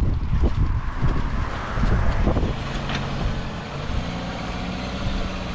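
Peugeot 405 engine running as the car drives slowly over a rough gravel and mud track. Its steady low hum comes in about halfway through and rises slightly. Before it, wind buffets the microphone with a few knocks.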